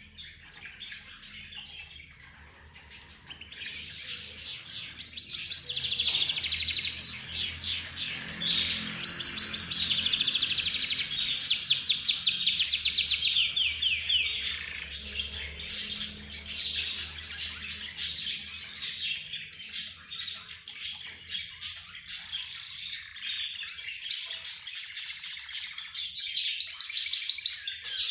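A mixed group of cage birds (budgerigars, lovebirds, zebra finches and a canary) chirping and trilling all at once. It starts fairly quiet and swells at about four seconds into dense, fast trills and chirps that keep going.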